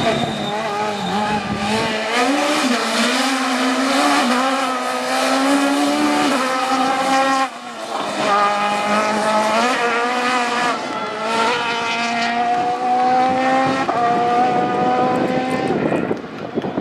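Rally kit car's engine at hard throttle, its pitch rising and falling through the gears. There is a sharp break for a gear change about seven and a half seconds in, and a long climbing rev from about twelve seconds that drops off near the end.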